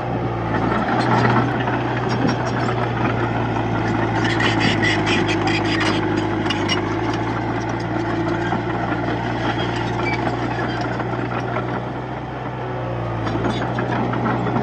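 Komatsu D31P crawler bulldozer's diesel engine running steadily, with a stretch of rapid rattling about four to seven seconds in.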